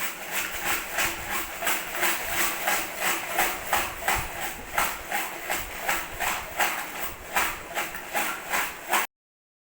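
Baby rattle shaken steadily in an even rhythm, about three shakes a second, each shake a bright burst of rattling beads; it stops suddenly about nine seconds in.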